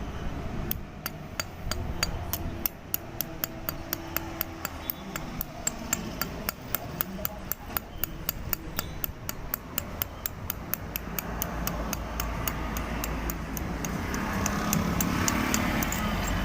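Cold welding repair machine firing a steady train of sharp discharge clicks, about four a second, that stops about thirteen seconds in. A louder low rumble follows near the end.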